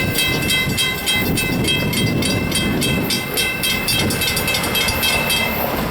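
Railroad grade-crossing bell ringing rapidly and evenly, about five or six strokes a second, over a low rumble.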